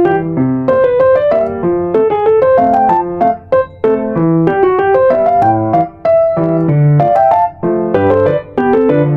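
Background music: a solo piano playing a steady flowing melody over low bass notes.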